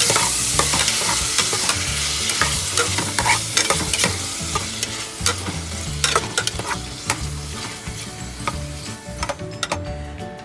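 Metal ladle stirring beef and vegetables in an aluminium pot, clinking and scraping against the sides, over a sizzling hiss from water added to the hot pan. The hiss fades away near the end.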